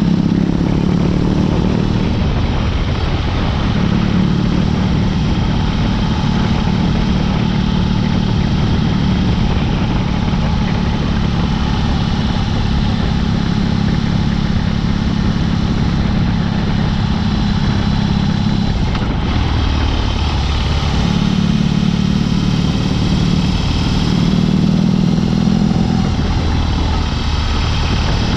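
BMW R18's 1802 cc boxer twin running through a Dr. Jekill & Mr. Hyde exhaust while the bike is ridden, a loud steady engine note. About two-thirds of the way in it drops briefly, then surges on and off the throttle.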